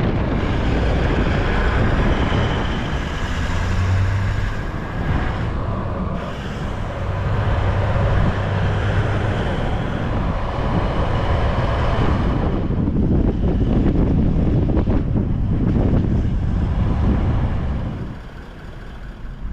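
Toyota LandCruiser 79 Series driving along a road: a steady low engine drone under road and wind noise, dropping away briefly near the end.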